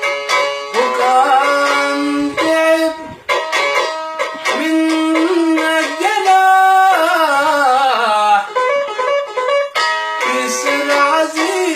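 Instrumental passage of a song: a plucked string instrument plays a quick melody of separate notes, with sliding notes and a falling run past the middle.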